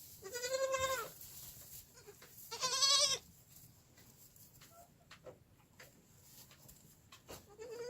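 Goat kids bleating: two high, quavering bleats in the first few seconds and a third starting near the end, with faint clicks of movement between them.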